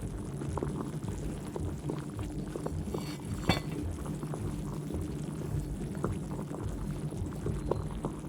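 Saucepan of sliced potatoes at a hard boil, uncovered, the water bubbling with many small pops and crackles. A single sharper knock comes about three and a half seconds in.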